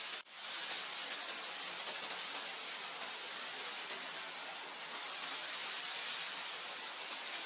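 Steady wind, an even rushing noise with most of its weight high up and little low rumble, broken by a brief dropout about a quarter of a second in.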